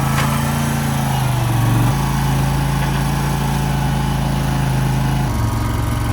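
A small engine running steadily, its pitch shifting about two seconds in and again near the end.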